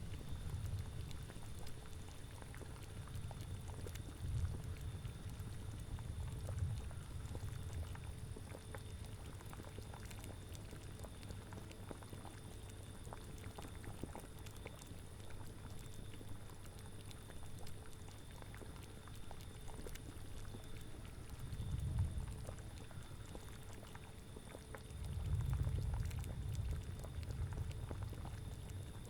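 A cauldron boiling, a steady bed of bubbling with small pops, under low rumbling gusts of wind that swell near the start, briefly about two-thirds of the way in, and again near the end.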